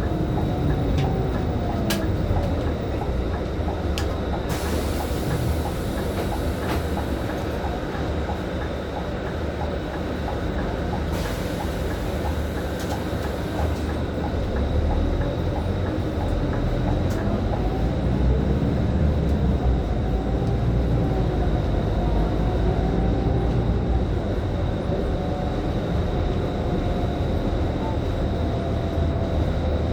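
Scania K310IB city bus under way, its engine and drivetrain droning with a pitch that slowly rises and falls as it speeds up and slows down. Two spells of hiss come through about four and eleven seconds in.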